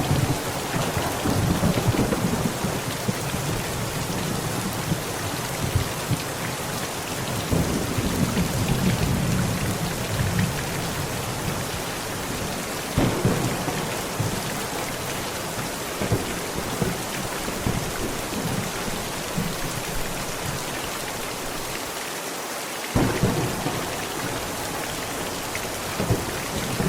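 Heavy rain pounding steadily on a tent, with rolling thunder rumbling in and out beneath it and a fresh thunderclap breaking in near the end.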